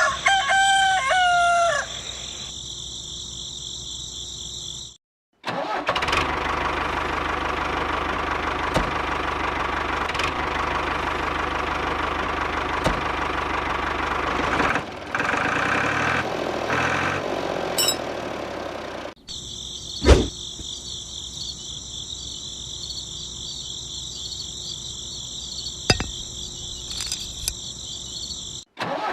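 Tractor engine running steadily to power a borewell pump drawing water, with a steady high-pitched whine in some stretches. A rooster crows in the first two seconds.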